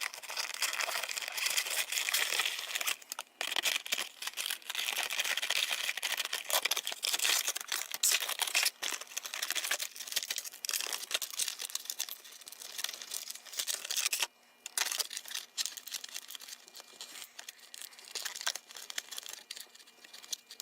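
Plastic toy packaging crinkling and tearing as it is opened by hand: a dense run of irregular crackles with a short pause about fourteen seconds in.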